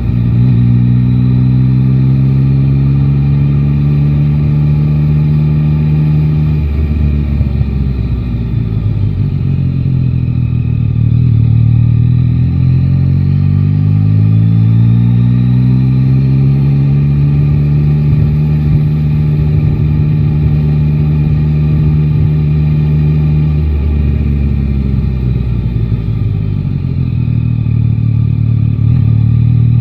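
Yamaha Tracer 9 GT's three-cylinder engine under way: holding a steady pitch, easing off about six seconds in, then rising in pitch as the bike accelerates, holding again, and rolling off near the end.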